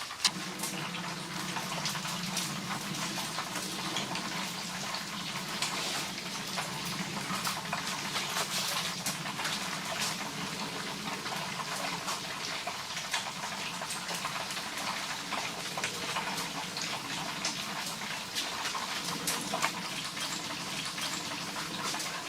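Steady rain falling, with many short, sharp drop hits scattered through it.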